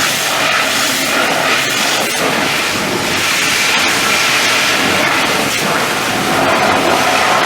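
Pressure washer spraying a high-pressure water jet onto a truck's bodywork: a steady, loud hiss of spray.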